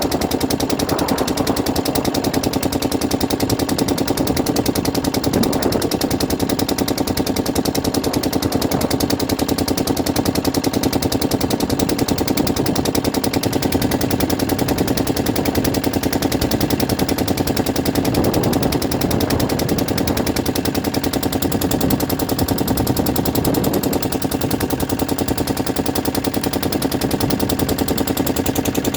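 An engine running steadily, with a rapid, even chugging that does not change.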